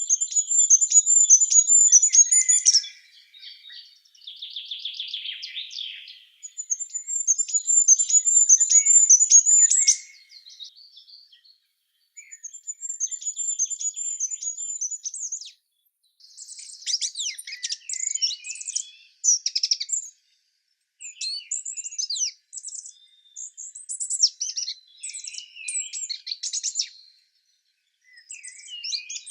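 Songbirds singing: a high, rapid trilled phrase about three seconds long repeated three times, with softer buzzy calls between, then a dense run of quick chirps and sweeping notes in the second half.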